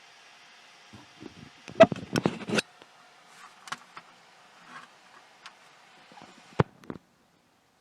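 Handling noises of small objects: a quick cluster of clicks and knocks about two seconds in, scattered lighter ticks, and one sharp knock near the end, over a steady hiss. The sound then cuts off suddenly to dead silence.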